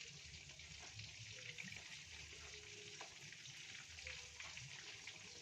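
Food sizzling in a frying pan on the stove: a steady, faint, fine hiss, with a light utensil tap about three seconds in.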